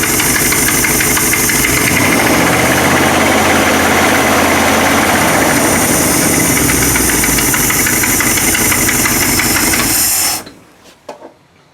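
Dodge 360 V8 engine running steadily on a freshly rebuilt Holley two-barrel carburettor, loud, with exhaust escaping through a big hole in the exhaust pipe. The sound cuts off suddenly about ten seconds in, leaving a few faint clicks.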